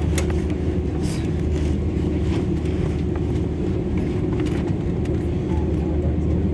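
Steady low cabin rumble inside an Airbus A320: the engines and air conditioning, a deep hum with a steady higher drone, level and unchanging, with a few faint light clicks.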